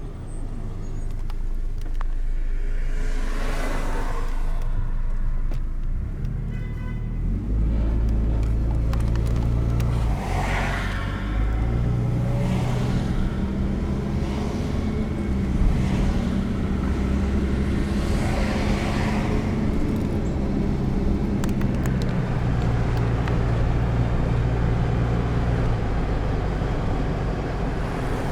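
Car engine running with a steady low hum whose pitch steps up and down several times, under road noise; three times a vehicle's sound swells up and fades away as it passes.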